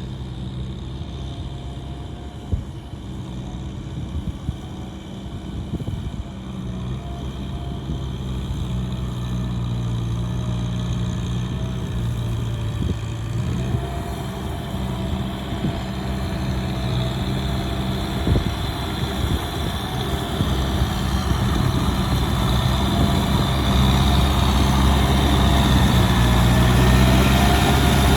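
Heavy diesel engine of a working earth-moving vehicle running steadily, growing gradually louder, with a few brief knocks.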